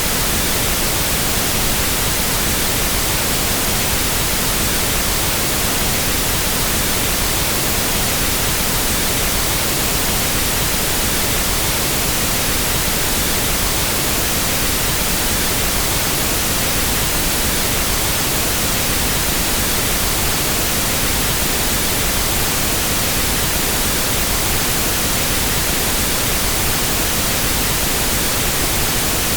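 Pink noise test signal: a steady, unchanging hiss spread evenly across all pitches, the reference signal used for equalizing sound systems.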